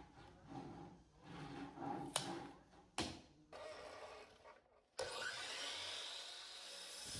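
Wooden workpieces being handled and rubbed in a woodworking shop, with two sharp knocks. About five seconds in, a steady machine noise starts abruptly.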